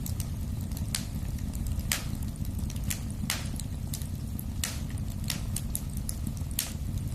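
Wood fire in a fireplace crackling: irregular sharp pops and snaps, about one or two a second, over a steady low rumble.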